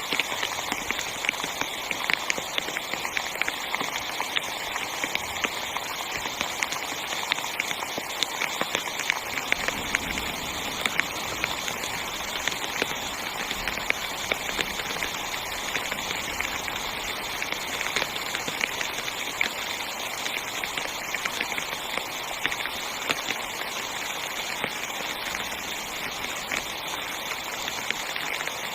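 Heavy rain pattering on a tent's fabric: a dense, steady hiss full of individual drop impacts.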